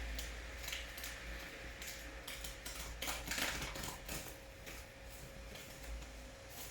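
Rain falling, with drops tapping at irregular intervals close to the microphone over a low steady rumble.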